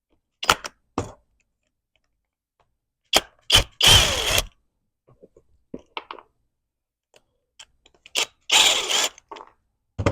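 Screws being backed out of the window motor's backing plate with a driver tool, heard as a series of short mechanical bursts. The longest, about half a second each, come around four seconds in and again near nine seconds.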